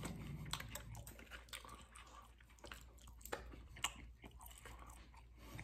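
A man quietly chewing a forkful of cheesy tater tots, with irregular soft mouth clicks.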